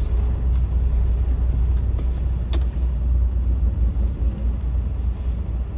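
Semi-truck's diesel engine running, heard from inside the cab as a steady low rumble, with a single sharp click about two and a half seconds in.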